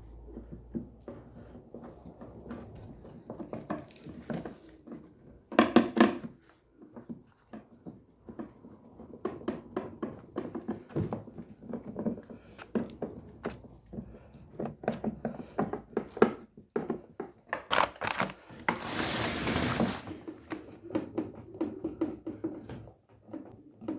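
Hands and tools working on washing-machine parts: scattered clicks and knocks, with a short loud rattle about six seconds in and a longer scraping rustle a little before the end.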